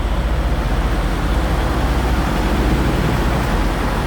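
Steady low rumble of an idling semi-truck diesel engine, with a fine rapid pulse under an even hiss.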